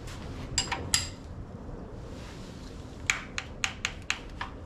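Metal hand tools clinking, then a ratchet wrench clicking about four times a second as it is swung back while turning the engine over by hand.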